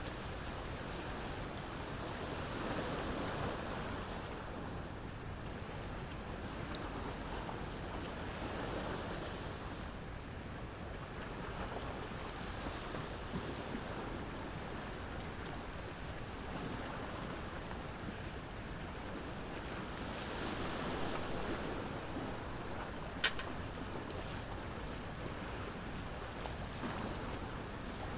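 Sea waves washing ashore, swelling and easing every few seconds, with the occasional faint crackle of a wood fire and one sharper pop near the end.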